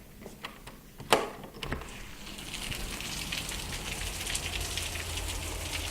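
Heavy rain falling steadily, growing louder about two seconds in, with a sharp click about a second in.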